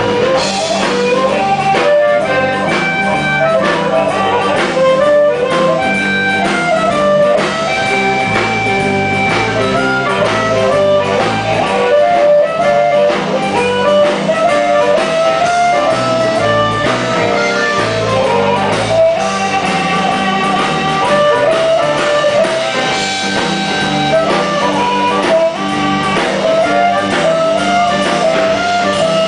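Blues band playing an instrumental break: a lead guitar solo over bass and drums.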